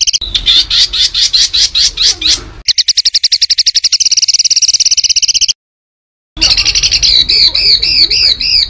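A songbird singing loud, harsh rapid-fire strings of repeated high notes, very fast at first, slowing briefly, then fast again. A sudden edit gap of about a second of silence falls past the middle, after which the song resumes as a run of arched, chirping notes about five a second.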